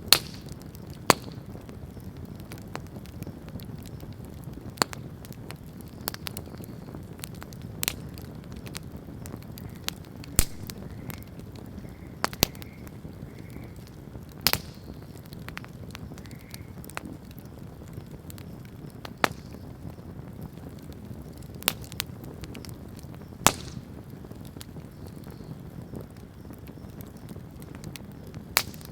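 Wood bonfire burning, with sharp irregular crackles and pops every second or two over a steady low rush of flame.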